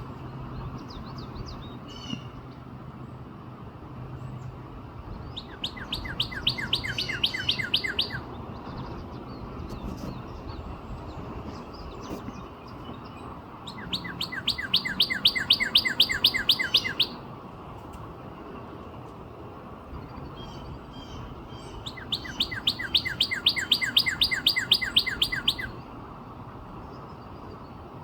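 Northern cardinal singing: three phrases of rapid, evenly repeated whistled notes, each lasting about three seconds, with pauses of about five seconds between them. Fainter bird notes come in the gaps.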